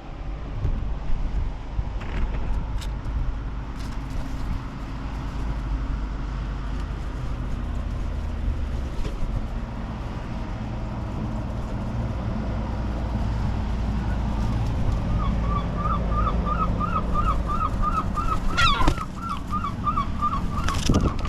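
Seagulls calling: from about fifteen seconds in, a rapid run of short repeated calls, close to three a second, with one louder call near the end, over a steady low rumble.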